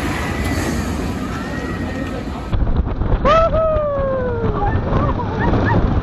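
On-ride sound of a launched family roller coaster: wind buffeting the microphone over the ride's rumble, with riders' long falling screams from about halfway through.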